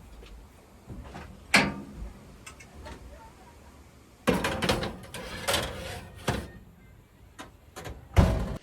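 Irregular knocks, clatters and rustling from things being handled. There is a busy stretch from about four to six and a half seconds in, and a sharp knock just before the end.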